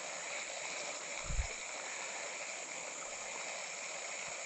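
Creek water running steadily under a constant high insect drone. A brief low thump comes about a second in.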